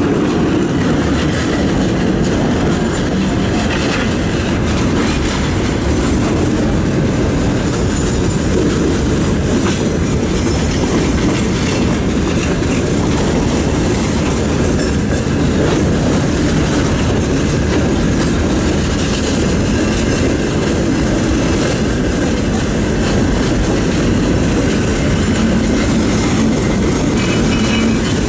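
Freight train of hopper cars and open gondola wagons rolling past as it departs a station, wheels running steadily on the rails with an unbroken heavy rumble.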